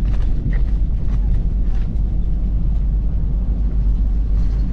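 Semi-truck's engine and road noise heard from the cab while driving: a steady low rumble.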